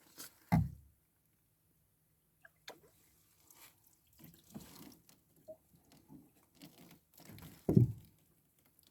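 Water dripping and splashing lightly in small scattered patters as a caught bass is handled and released, with a sharp thump half a second in and a louder thump near the end.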